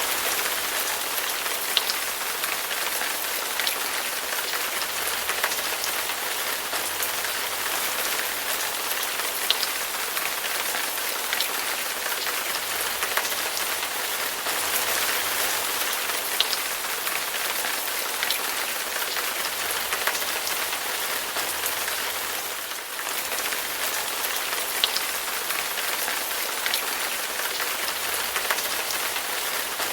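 Heavy rain falling steadily: an even hiss with scattered sharper drop impacts, briefly dipping in level about two-thirds of the way through.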